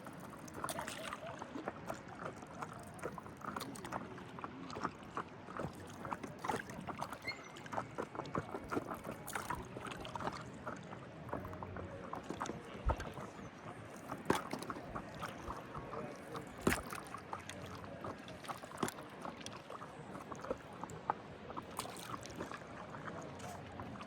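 Lake water lapping and splashing at the shore, with frequent short irregular splashes and knocks and a few sharper ones around the middle.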